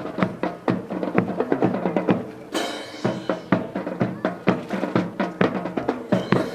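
Rapid, irregular sharp clacks and knocks of many drill rifles being spun, caught and slapped by a drill team, over a faint steady pitched sound.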